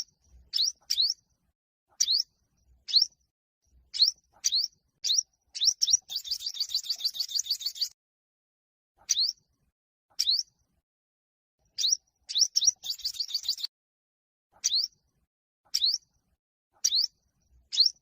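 Yellow-bellied (olive-backed) sunbird singing loud, sharply rising chirps about once a second, broken twice by a fast buzzy trill of rapid notes, about six seconds in and again about twelve seconds in: the bird's competitive song.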